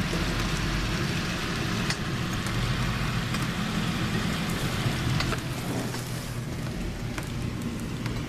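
Steady hiss of rain with road traffic on wet pavement, scattered drip ticks and a low engine hum underneath. The hiss eases off about five seconds in.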